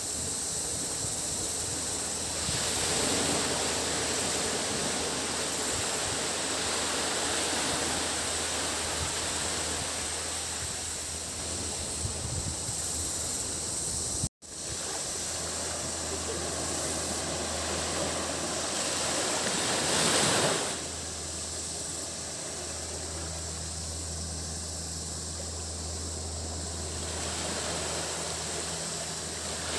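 Sea waves washing onto a beach, rising and falling in swells with the loudest one about two-thirds of the way through, over a steady high-pitched cicada drone. The sound cuts out for a split second about halfway through.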